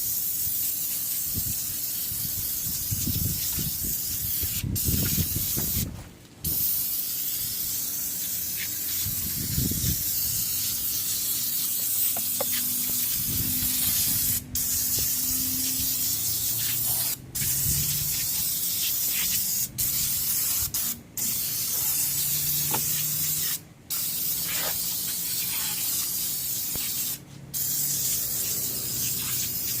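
Aerosol can of engine degreaser spraying a steady hiss onto the engine, held in long runs and let off briefly about eight times.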